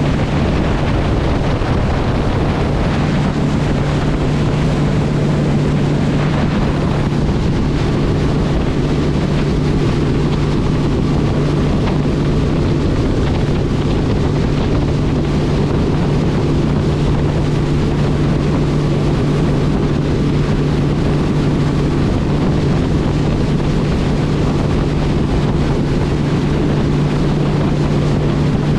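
Steady engine drone of a motor vehicle running at constant speed, with a continuous low hum and wind noise on the microphone.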